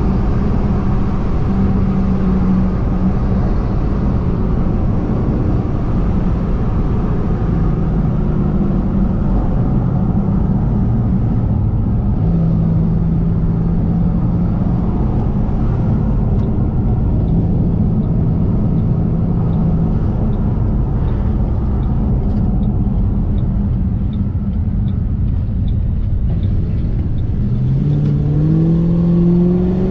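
Supercharged 4.6-litre V8 of a 2006 Ford Mustang GT running at a steady cruise over road noise, then revving up with a rising pitch near the end as the car accelerates. A faint, regular ticking sounds through the middle stretch.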